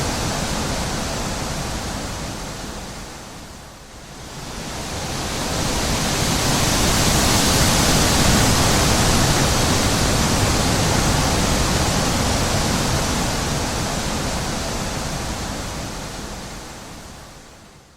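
Wind blowing as a steady rush of noise. It dies down about four seconds in, swells back to full strength, then fades out near the end.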